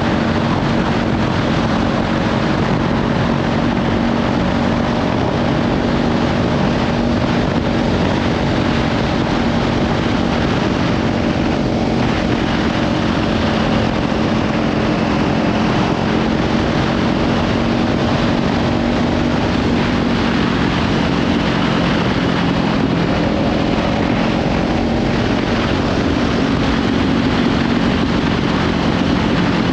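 Kawasaki Ninja 500 parallel-twin engine running at a steady cruise through a Leovince slip-on exhaust, with heavy wind noise on the microphone.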